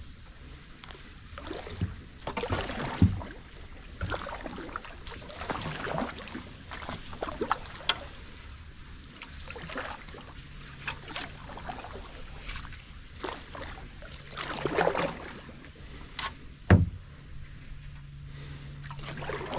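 Kayak paddle strokes swishing and splashing through swamp water in an uneven rhythm, with two sharp knocks, one about three seconds in and one near the end.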